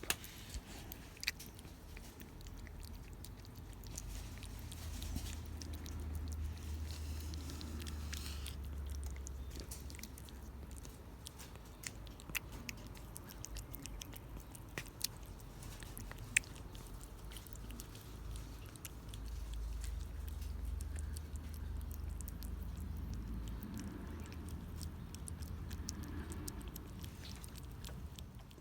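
A cat chewing and eating its food, with scattered small clicks.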